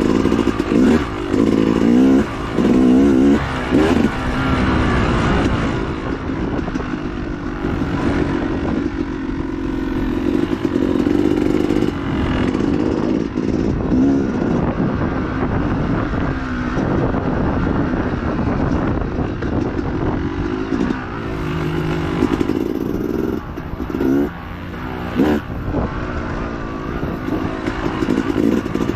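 Dirt bike engine under race throttle, its pitch rising and falling constantly as the rider rolls on and chops the throttle, with quick sharp blips in the first few seconds and again near the end.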